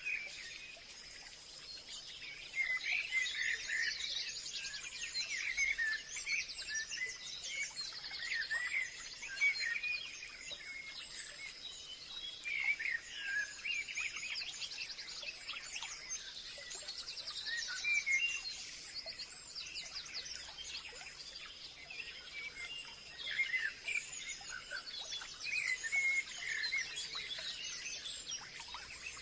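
Forest birdsong: several birds chirping and trilling over one another, over a steady faint high-pitched hiss.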